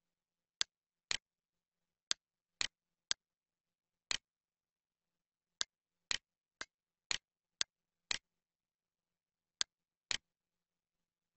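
Computer mouse clicking: about fourteen sharp clicks at uneven intervals, some in quick pairs half a second apart, several with a doubled press-and-release sound, and dead silence between.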